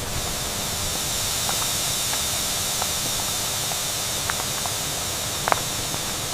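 Food sizzling in a hot pan: a steady hiss with scattered small crackles and one sharper pop about five and a half seconds in.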